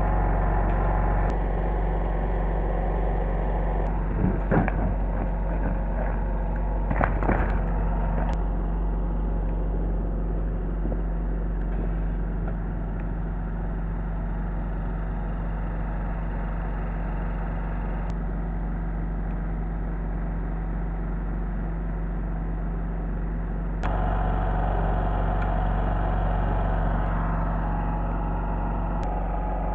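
A car running on the road, heard from inside the cabin as a steady engine hum and road noise, with a few short knocks about four and seven seconds in. It gets a little louder about 24 seconds in.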